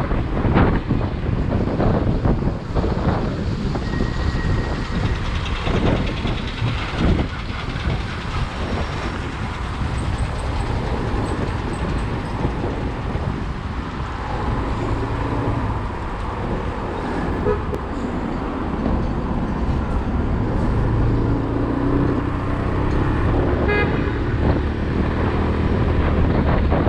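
Motorcycle riding in traffic: wind buffeting the microphone over road and engine noise, with a short horn toot near the end.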